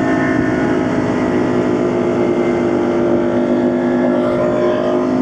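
Motorcycle engine running at a steady speed while riding, its pitch holding level, with wind noise over it.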